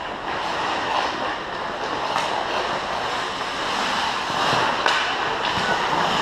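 Ice hockey arena sound: a steady wash of crowd noise and skates on the ice, with a few sharp knocks from sticks and puck.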